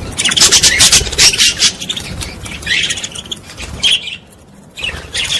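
Small birds chirping and twittering rapidly: a dense, loud burst in the first couple of seconds, then shorter bursts, a brief lull near the end and more chirping.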